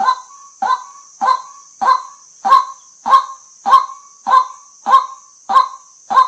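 White-breasted waterhen giving its repeated "kwak" call in a steady rhythm, about one call every 0.6 seconds, over a constant high hiss.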